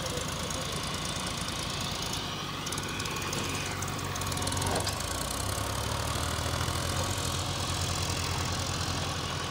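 Diesel engine of a tractor or backhoe loader running steadily, its note changing about halfway through.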